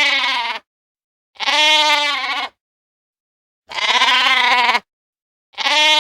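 Sheep bleating: four wavering calls of about a second each, with short pauses between them.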